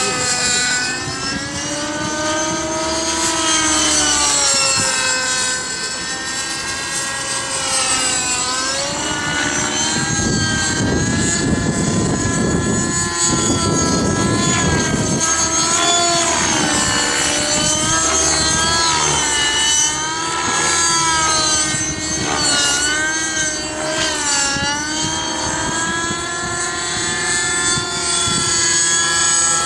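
Align T-REX 600 nitro RC helicopter's 55-size glow engine and rotor blades whining in 3D flight, the pitch wavering up and down with the manoeuvres. Gusts of wind rumble on the microphone in the middle.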